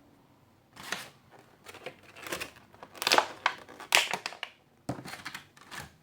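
Plastic blind-bag packaging being handled and torn open, crinkling and rustling in irregular bursts.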